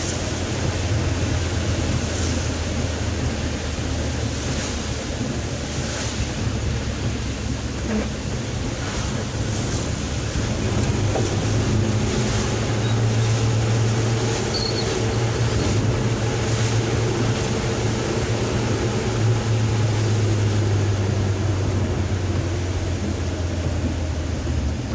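Suzuki Carry pickup driving, heard from inside the cabin: the low engine hum over a steady rushing of road and heavy-rain noise. The engine note grows stronger for a few seconds in the middle.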